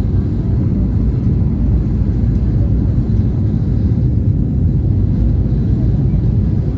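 Steady low rumble of an Airbus A320-family jet airliner's engines and airframe, heard from inside the passenger cabin.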